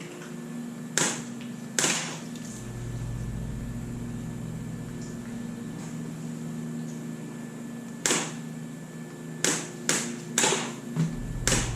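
A steady mechanical hum with a low rumble under most of it, broken by short sharp bursts: two early on and a quick cluster of five or six near the end.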